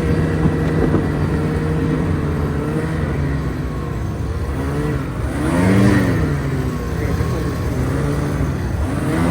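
Snowmobile engine running steadily, revving up and back down about six seconds in, with another rise near the end.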